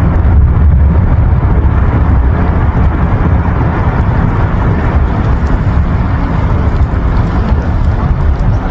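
Wind buffeting the microphone: a loud, steady low noise without distinct events.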